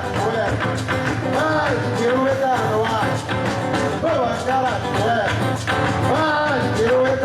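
Electric Gambá music, the Amazonian drum genre from Maués played by a band: a dense, steady drum beat under a wavering, bending melody line.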